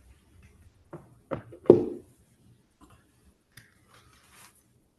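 Three short knocks in quick succession, about a third of a second apart, the last one the loudest, followed by a faint brief rustle.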